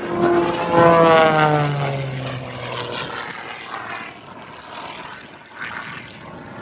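Airplane flying past, its engine note falling steadily in pitch as it goes by. It is loudest about a second in and then fades to a fainter rumble.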